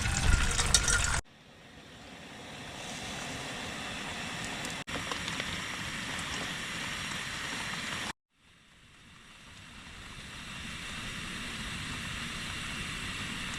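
Tea boiling in a pot over a campfire: a steady bubbling hiss in two short cut-together stretches that each fade in, with sudden cuts about a second in and about eight seconds in. A louder rushing noise fills the first second, before the first cut.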